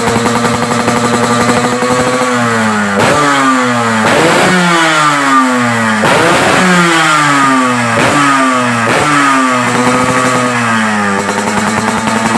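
Yamaha RX-King's single-cylinder two-stroke engine, breathing through an aftermarket under-belly expansion-chamber exhaust, idling and then free-revved in a series of quick throttle blips, each rev falling back before the next. It settles back to idle near the end.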